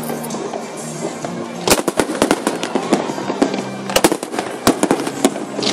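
Fireworks bursting overhead: rapid clusters of sharp bangs and crackles, the densest about two seconds in and again about four seconds in, with music playing steadily underneath.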